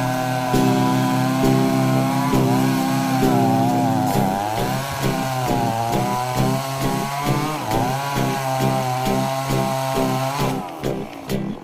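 Chainsaw running at high speed while cutting a tree, its pitch rising and falling repeatedly as the chain works into the wood.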